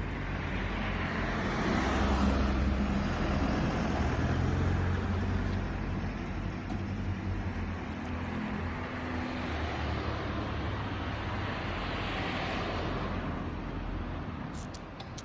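Road traffic: cars passing on a nearby road, swelling as they pass about two seconds in and again around twelve seconds.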